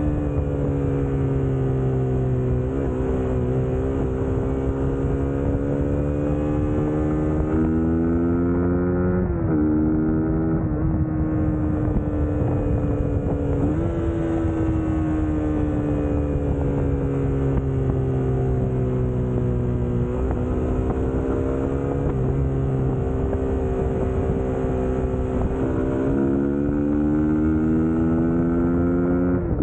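Suzuki GSX-S150's single-cylinder engine running under way. Its note sags slowly and then jumps back up several times as the throttle and gears change.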